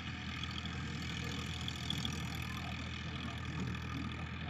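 Powertrac Euro 50 tractor's diesel engine running steadily at an even speed.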